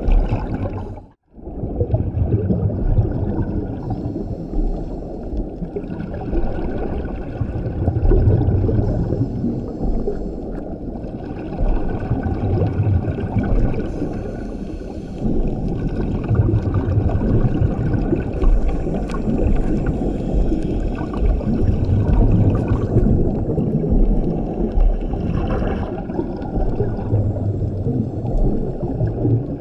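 Scuba diver breathing through a regulator underwater: a low bubbling rumble of exhaled air surges every few seconds, with fainter hiss between breaths, over steady underwater noise. The sound cuts out briefly about a second in.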